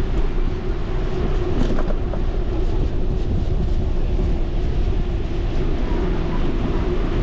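Steady wind buffeting on the microphone of a moving bicycle rider, a low rumble with a steady hum running under it.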